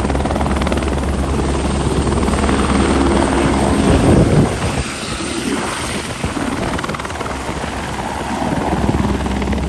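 Helicopter running, a loud, dense mechanical drone with steady low-pitched tones. It swells a little after four seconds, then continues rougher, with the low tones weaker.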